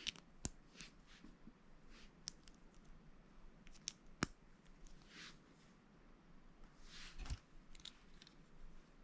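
Plastic Lego bricks being handled and snapped together: scattered sharp clicks, the sharpest about four seconds in, with soft rustling between.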